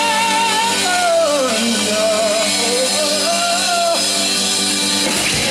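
Live rock band playing with drums and guitar, with long held, wavering sung notes over the band.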